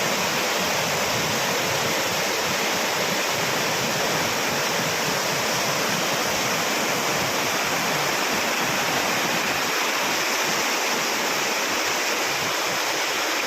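Waterfall: water pouring and rushing in a steady, dense roar of white noise that does not change.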